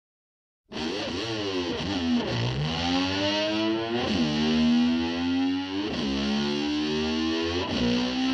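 Distorted electric slide guitar starting about a second in, its pitch climbing, dropping sharply and climbing again about every two seconds, imitating a motor scooter revving up through its gears.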